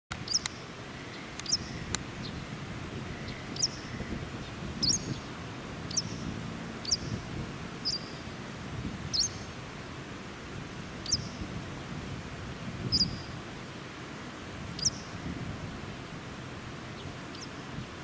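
Small bird giving short, sharp, high chirps, about a dozen at irregular intervals of one to two seconds, that stop a few seconds before the end, over a steady low outdoor rumble.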